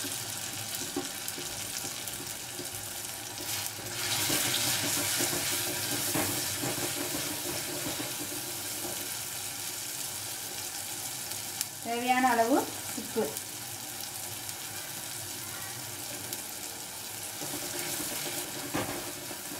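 Onion-tomato masala with chilli and turmeric powder frying in oil in a clay pot: a steady sizzle, with a wooden spatula stirring through it. The sizzle swells for a few seconds from about four seconds in and again near the end. The spices are being fried in oil to cook off their raw smell.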